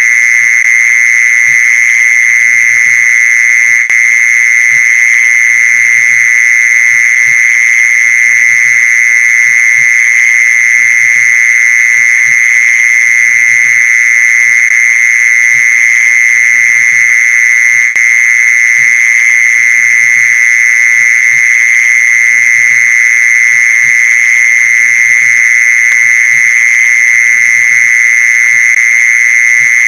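Mole cricket song: one loud, high, unbroken trill that holds steady throughout, the call used to lure mole crickets.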